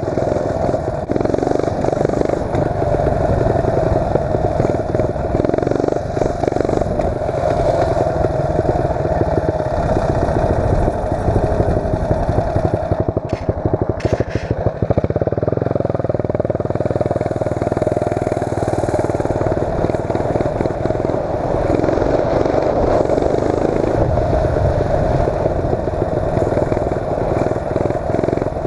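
8 hp Tecumseh single-cylinder engine of a mini bike running hard as the bike is ridden, its note rising and falling with the throttle. About halfway through it briefly eases off before pulling again.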